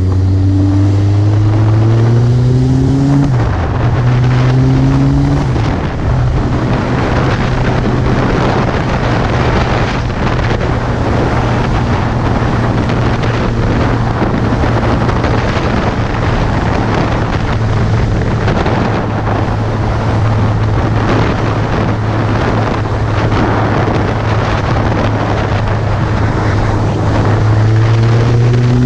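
Suzuki GSX650F's inline-four engine pulling up through the gears, its pitch rising twice with shifts about three and five and a half seconds in, then holding steady revs at cruise under heavy wind noise on the microphone. The revs rise again near the end.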